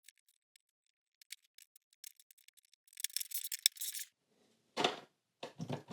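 LEGO plastic pieces being handled and pulled apart: scattered small light clicks, then a short burst of scraping and rattling about three seconds in. A few short, fuller breathy sounds follow near the end.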